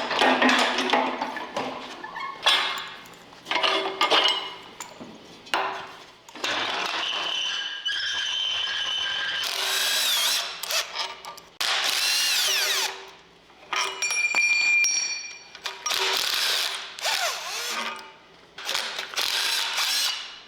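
Hand and power tools working on an engine: a series of short bursts of ratcheting and tool noise, with several short runs of a power tool that whines up and down in pitch.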